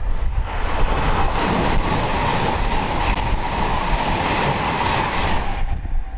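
A train passing on the line, the noise of its wheels on the rails coming up about half a second in and cutting away near the end, with wind buffeting the microphone underneath.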